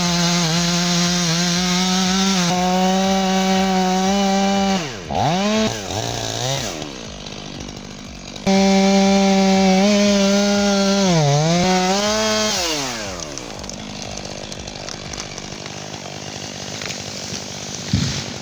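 Chainsaw running at high revs while cutting into a tree trunk. Its pitch sags and wavers twice, and about two-thirds of the way in it drops away to a quieter, lower running.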